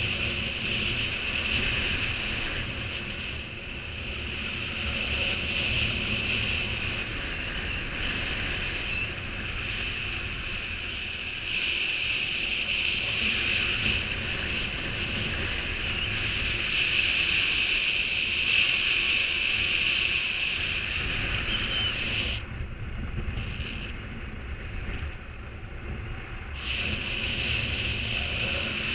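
Wind rushing over the microphone in flight under a 16 m paraglider mini wing: a steady hiss over a low buffeting rumble, easing for a few seconds near the end.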